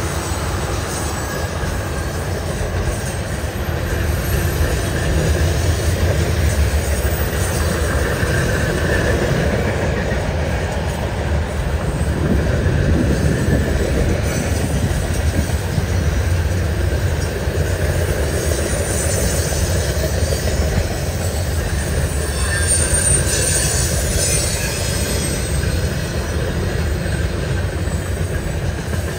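Canadian National freight cars, tank cars then centerbeam lumber flatcars, rolling past: a steady rumble of steel wheels on rail. A faint higher wheel squeal comes in about a third of the way through and again about three quarters through.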